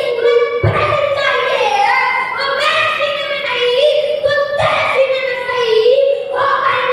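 A boy's high voice singing verse in long held notes that step and glide in pitch.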